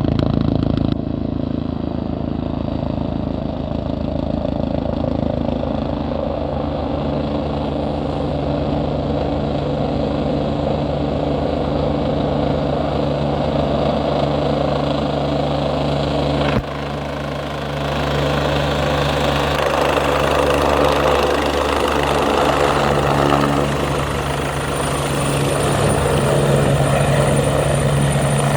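Helicopter rotor and engine running with a rapid, steady rotor chop, as the helicopter comes in to land. The level dips briefly about two-thirds of the way through, then the sound grows fuller and louder toward the end.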